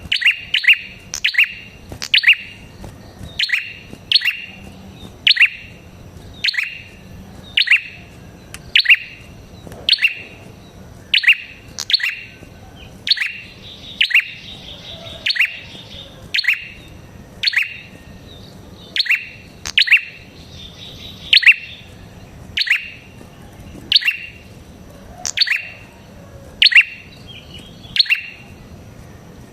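Prenjak kepala merah (red-headed prenjak) calling: a loud, sharp chip note that sweeps downward, repeated about once a second and often in quick pairs. It is a lure call of the kind played to draw wild prenjaks in.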